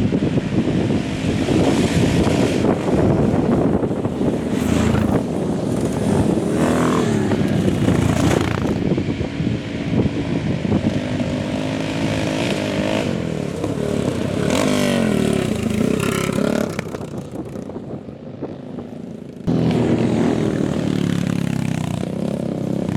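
Café racer motorcycles racing on a dirt track: several engines revving up and down as bikes pass one after another. The sound drops away about three-quarters through and then comes back suddenly at full level.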